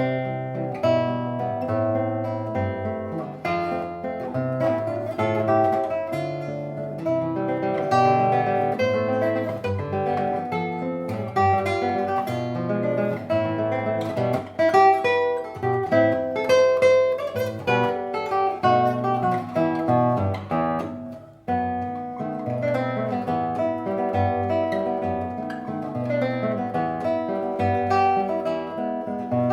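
Solo guitar playing a waltz, with plucked bass notes under a melody and chords. The music dips briefly about two-thirds of the way through and then picks up again.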